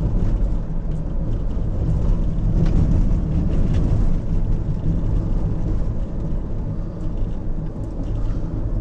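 Car driving on a broken, potholed country road: a steady low rumble of engine and tyres, with a few faint knocks as it jolts over the rough surface.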